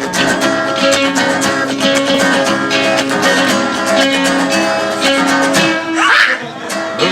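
Acoustic guitars strumming and picking an instrumental break in an upbeat country-western song played live. About six seconds in there is a brief, louder, higher sound over the playing.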